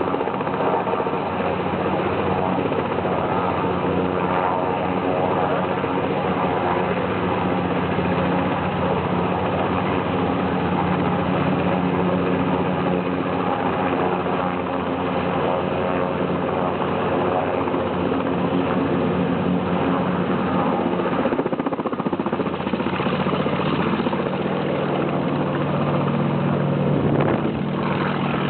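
Sikorsky H-34 helicopter running steadily, the drone of its piston radial engine under the rhythmic chop of the rotor. The engine's pitch shifts a little about two-thirds of the way through.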